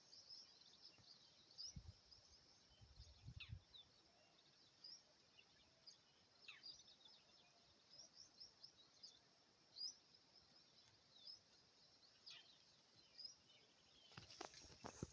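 Faint birds chirping and twittering in rapid short high notes, with a few quick downward-sliding calls. There are a couple of low thuds about two to three seconds in, and louder sounds just before the end.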